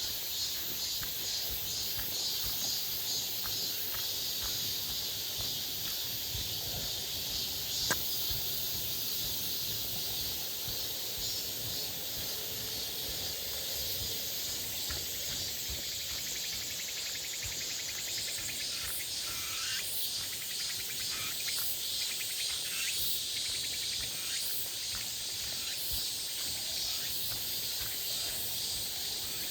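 A summer chorus of cicadas and crickets: several insects buzzing and trilling together in steady, high-pitched layers, with a sharp click about eight seconds in.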